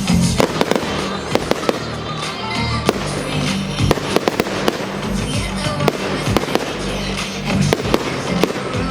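Fireworks going off in a rapid, irregular string of sharp bangs and crackles, over loud pop music with singing from a public-address system.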